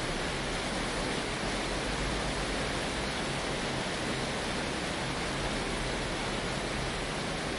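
Heavy rain falling steadily on a tin roof: a dense, even hiss with no single drops or thunder standing out.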